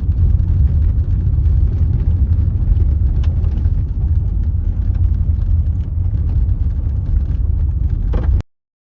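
Car driving on a gravel road, heard from inside: a steady low road-and-tyre rumble with a few faint ticks. It stops abruptly about eight seconds in.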